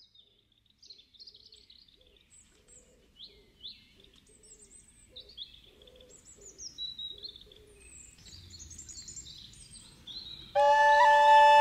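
Several birds chirping and singing in quick varied calls. About ten and a half seconds in, much louder music with long held notes starts abruptly.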